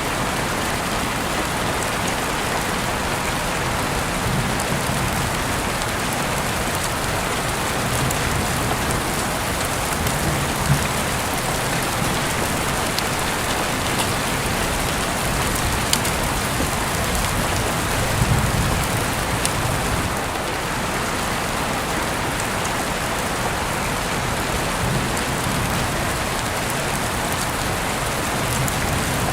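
Heavy rain falling steadily, heard through an open window, with a few sharp taps of drops landing close by and a few brief low rumbles.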